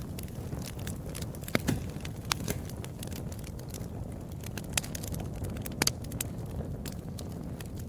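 Wood fire crackling in a fireplace: a steady low rumble of burning with irregular sharp pops and snaps, the loudest about one and a half seconds in and again near six seconds.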